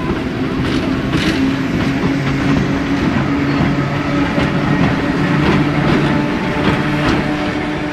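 Old passenger coaches of a steam-hauled train rolling past, their wheels clicking over the rail joints, over a steady low hum.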